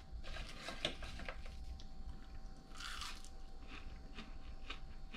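A person biting into and chewing crispy fried crappie, with faint crunching and crackling from the fried crust.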